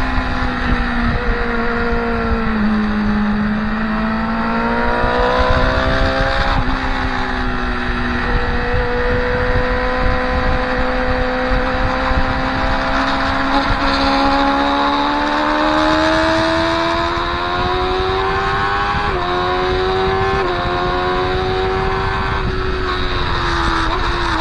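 Motorcycle engine heard from on board at speed: its pitch drops about two to three seconds in, then climbs slowly for a long stretch, with small sudden steps near the end. A steady low rush of wind runs underneath.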